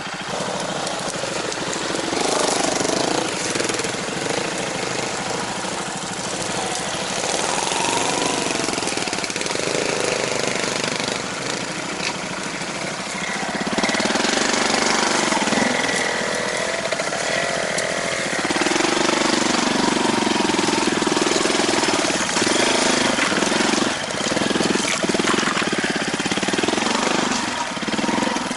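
Vehicle engine running while moving over a rough mountain track, its revs rising and falling, with rattling and a run of knocks in the second half.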